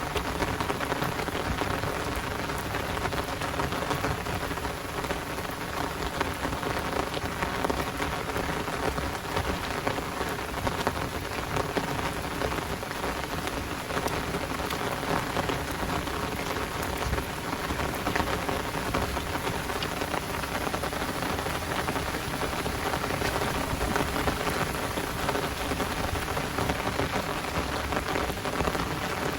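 Heavy rain falling steadily, a dense patter of drops with no pause or change.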